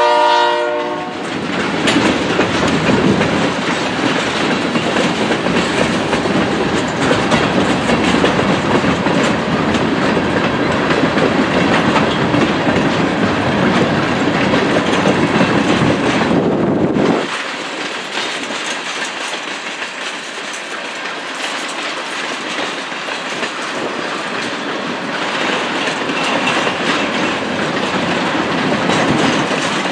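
Train of railroad tank cars rolling past, wheels clattering over the rail joints in a steady rumble. The locomotive horn fades out about a second in. About two-thirds of the way through, the deep rumble drops away suddenly, leaving a lighter clatter.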